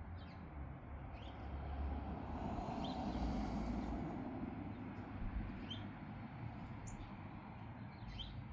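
Short, faint bird chirps every second or two over a low outdoor rumble that swells near the middle.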